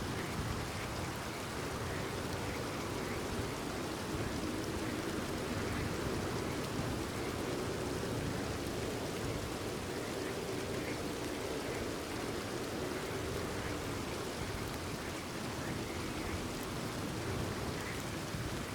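Steady rain falling, with frogs calling throughout.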